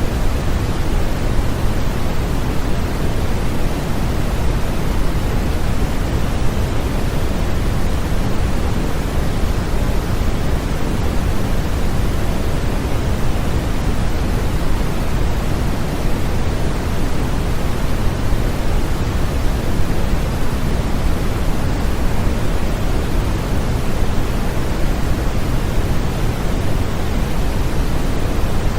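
Steady, continuous synthetic noise, weighted toward the low end like pink noise, with no changes or events; a constant sleep-aid noise played to soothe a baby.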